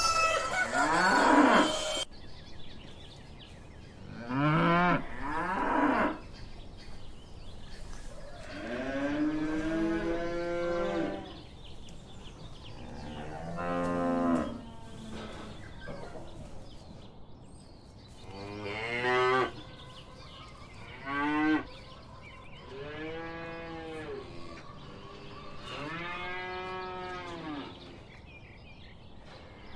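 Domestic cow mooing repeatedly: about seven separate moos spaced a few seconds apart, each rising and falling in pitch.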